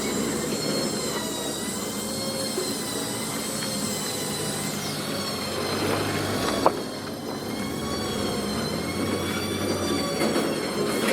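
Heavy machinery running with a steady low hum and a high, wavering metallic whine, with one sharp knock about two thirds of the way through.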